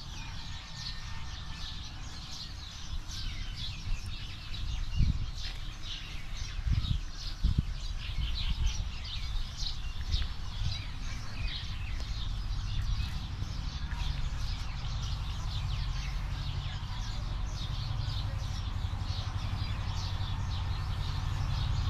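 Many small birds chirping over a steady low rumble, with a few dull thumps about five to seven and a half seconds in.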